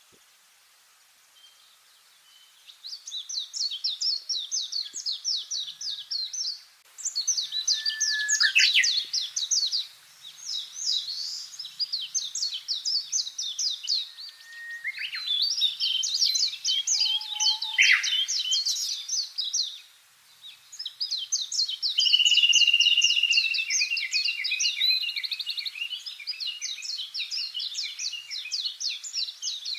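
Songbirds singing: phrases of rapid repeated chirping notes lasting several seconds each, with brief pauses between them, a few down-slurred notes and a held whistle about two-thirds of the way in. It begins after a couple of seconds of near quiet.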